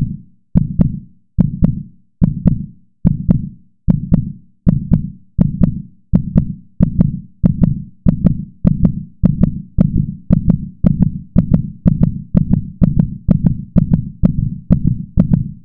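Heartbeat sound effect: deep double thumps, lub-dub, that start at a slow pulse and speed up steadily to about two beats a second.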